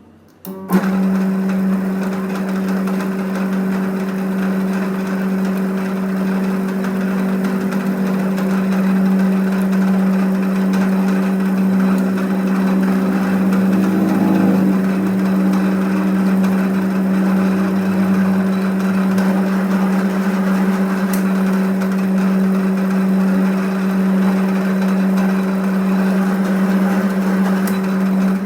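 A workshop machine running steadily with a strong, even low hum, which starts abruptly just under a second in.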